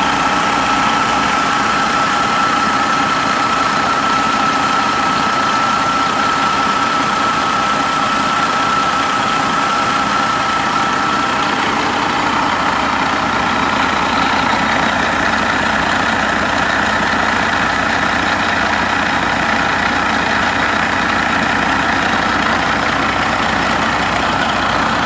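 Detroit Diesel Series 60 12.7-litre inline-six diesel engine idling steadily, with a steady high whine that fades out about halfway through.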